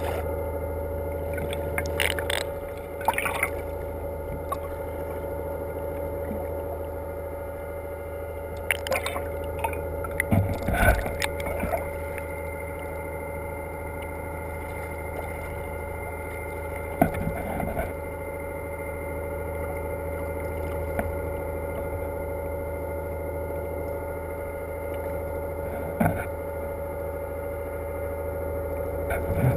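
A boat's engine running steadily with a constant hum, with a few sharp knocks and clatters on the boat, a cluster of them around ten seconds in.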